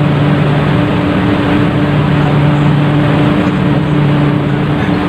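Ship's engine running with a steady low drone and a constant rushing noise, heard from on board the vessel.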